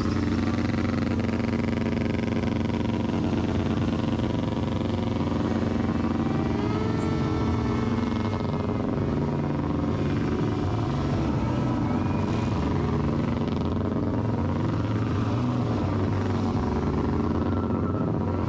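Motorcycle engines running at a steady pitch, with a couple of short rises in pitch about six and twelve seconds in.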